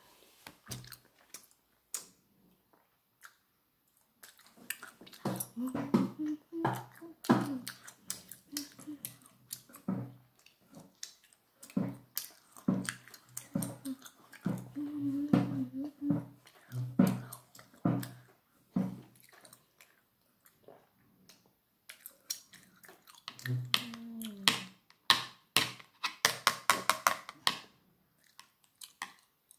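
Close-up eating sounds: chewing and mouth noises, many short sharp clicks, and metal chopsticks tapping on a plastic plate. Low hums of the voice come and go between bites, heaviest in the middle.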